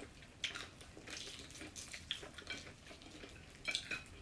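Eating sounds close to the microphone, typical of a mukbang: irregular small clicks and crackles of chewing and handling fried chicken, a few sharper ones near the end.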